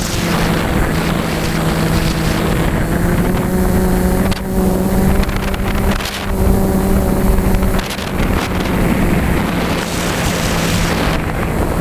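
An FPV multirotor's electric motors and propellers humming steadily, the pitch shifting slightly as the throttle changes, with strong wind buffeting the microphone.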